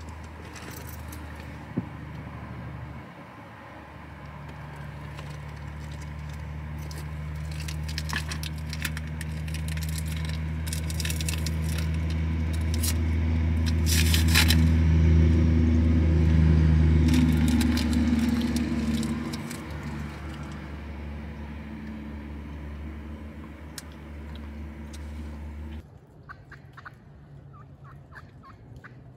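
A low engine drone that swells louder over about a dozen seconds, then eases off and cuts out abruptly near the end, with scattered crackling clicks over it in the middle.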